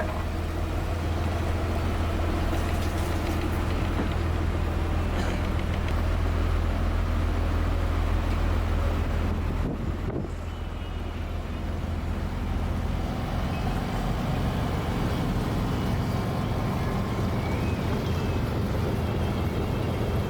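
Houseboat engine running steadily with a low drone under the boat's moving noise as it cruises; the drone shifts slightly about thirteen seconds in.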